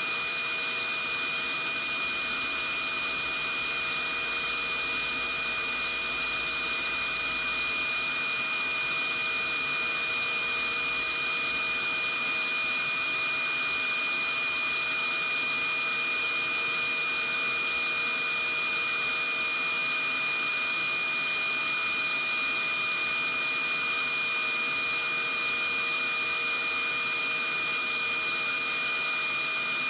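Vacuum cleaner running steadily: an even rushing hiss of air with a constant high motor whine, used as white noise to lull a baby to sleep.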